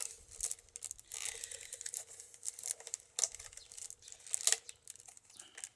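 Rustling and crackling of a woven basket's bird-cherry strips being worked by hand, with irregular small clicks as the end of a strip is tucked into the weave.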